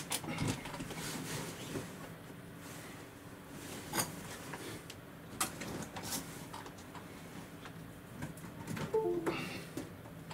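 Rain on a window pane: irregular ticks and taps of drops striking the glass over a faint steady hiss, with a brief squeak about nine seconds in.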